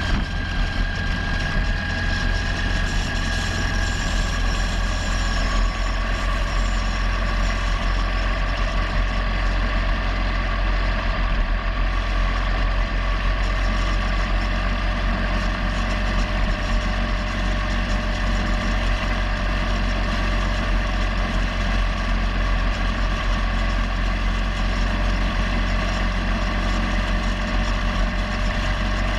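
Motorcycle engine running at a steady cruise while riding, its pitch drifting only slightly, over a strong steady low rumble.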